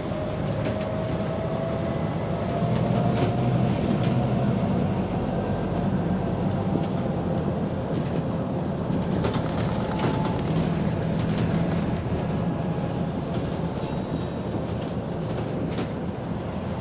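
Engine of bus WVN46 running as the bus drives, heard from inside the passenger saloon with small interior rattles; the bus has a slight exhaust leak. A faint whine rises slowly in pitch in the first few seconds, and the engine hum grows louder from about three seconds in.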